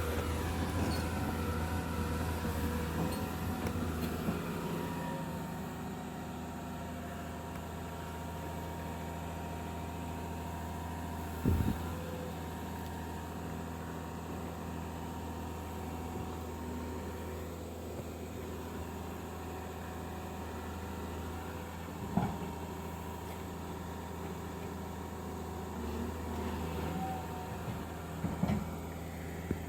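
Heavy diesel engine running steadily at low revs, a little louder for the first few seconds, with three short sharp knocks about a third of the way in, two-thirds in and near the end.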